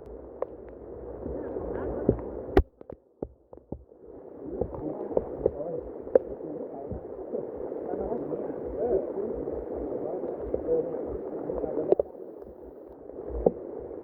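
Rushing water of a waterfall, a steady low rush broken by a few sharp knocks of handling. It drops out briefly about three seconds in, then comes back.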